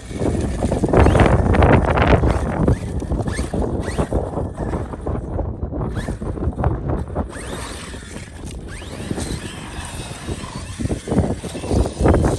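Arrma Fireteam 6S RC car being driven hard, its electric motor whine rising and falling over a rough, crackling running noise.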